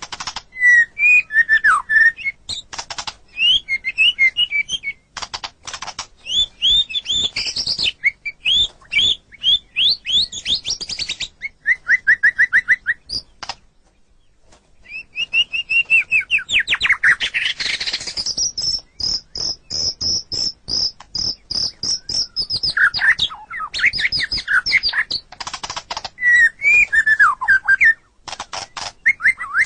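White-rumped shama (murai batu) singing a long, varied song of loud whistled phrases, trills and sharp clicking notes, with a brief pause about halfway and then a fast, even run of high notes lasting several seconds.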